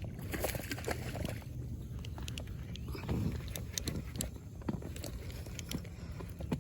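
Scattered light clicks and knocks over a low steady rumble as a hooked bass is reeled in from an inflatable boat on a baitcasting rod and reel.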